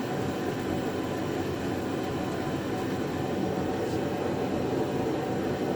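Steady, unchanging whooshing drone of a running fan-type air mover, such as a shop air conditioner.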